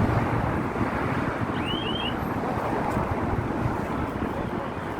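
Steady street traffic noise mixed with wind rumbling on the microphone. About two seconds in there are three short, high, quickly repeated chirps.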